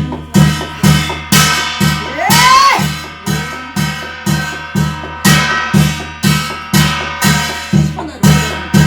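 Korean shamanic ritual (gut) music: a steady, even beat of drum and clashing cymbals about two strokes a second, over ringing metal tones, with a brief sliding tone that rises and falls between two and three seconds in.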